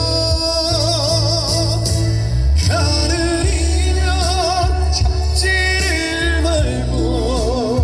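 Male trot singer singing live over backing music, holding long notes with wide vibrato.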